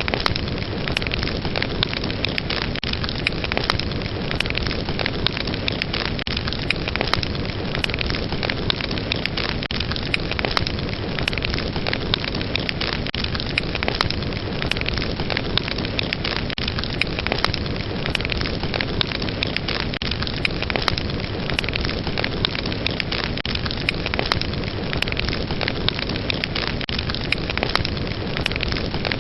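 Fireplace fire burning: a steady, dense hiss with frequent sharp crackles and pops throughout.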